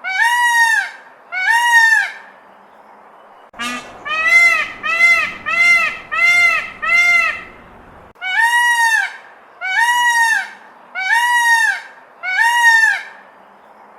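An animal calling again and again: short pitched calls of under a second each, every one rising then falling in pitch, coming in runs with short pauses between.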